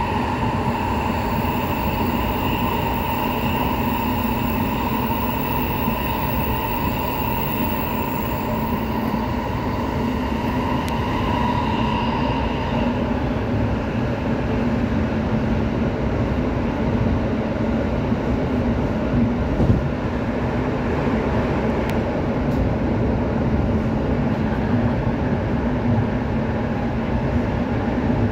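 Tsukuba Express TX-3000 series electric train running steadily at about 80 km/h, heard from inside the train: an even rumble of wheels on rail. Several high whining tones ride over it and fade away about twelve seconds in.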